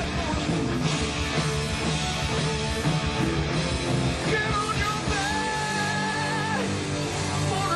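Live hard rock band playing, with electric guitar, bass and drums, and singing. A long held high note comes a little past the middle.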